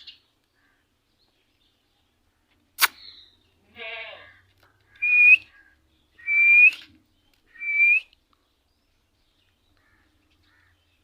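A bird calling: three loud, short, slightly rising calls about a second and a half apart, after a raspy call and a single sharp click.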